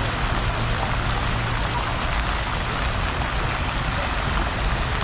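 Steady rush of water flowing and splashing in a plaza fountain, with a low steady hum underneath.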